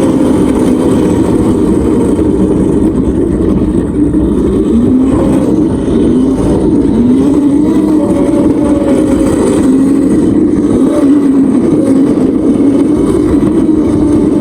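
Vehicle running while being ridden, its engine or motor tone wavering gently up and down, with heavy wind rumble on the microphone.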